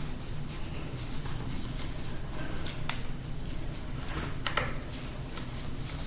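Light clicks and taps of small metal and plastic parts being handled while a laptop is taken apart, with a sharper click about three seconds in, over a faint steady low hum.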